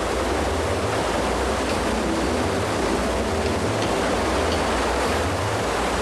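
Steady rush of a waterfall and the fast torrent below it.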